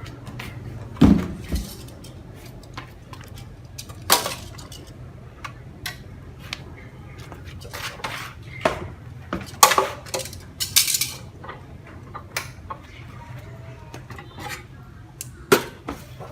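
Metal parts of a newly unboxed BTEC BT357 abrasive cut-off saw being handled: scattered knocks and clinks, with a heavy thump about a second in.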